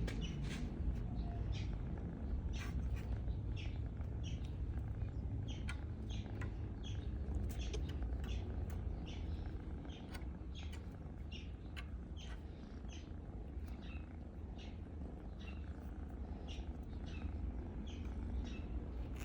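Pet cat purring steadily, a low continuous rumble, with many short high chirps scattered over it at a few per second.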